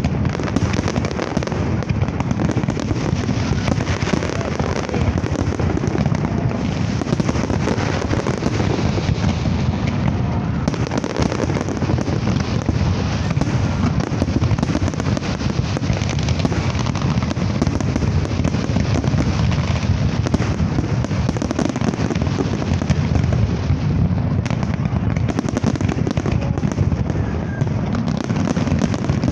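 Large aerial fireworks display: a continuous barrage of booming shell bursts and crackling, the bangs running together without a break.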